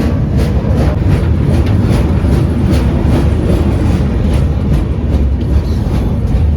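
Indian passenger train running: a loud, steady rumble with the wheels clattering over rail joints, about two to three clacks a second.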